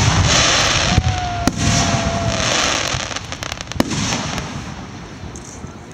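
Aerial fireworks bursting: a dense crackle of shells with sharp bangs about one second, one and a half seconds and nearly four seconds in. The crackling fades away over the last couple of seconds.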